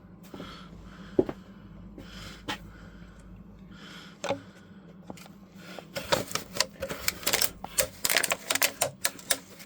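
Handling noise: a few scattered clicks and knocks, then rapid, irregular clicking and clattering from about six seconds in, over a steady low hum.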